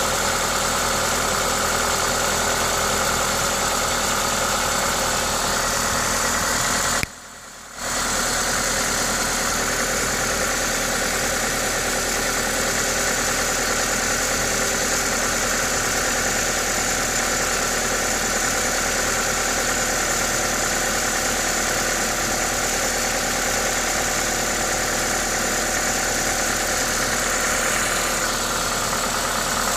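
Toyota 2ZZ-GE 1.8-litre four-cylinder engine idling steadily, with a hiss from its aftermarket induction kit over the engine noise; this is its normal running sound. The sound drops out for under a second about seven seconds in.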